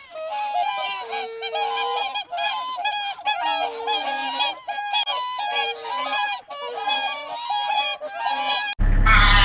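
Geese honking, one honk after another at about two a second, until they cut off abruptly near the end.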